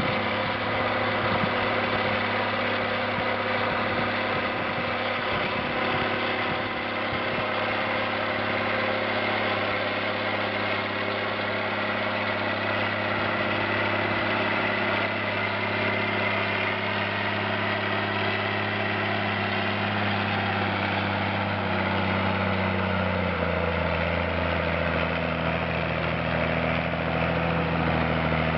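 Zetor 16145 tractor's diesel engine running steadily under ploughing load, with a high whine above the engine note. About 23 seconds in, the engine note drops to a lower pitch and holds there.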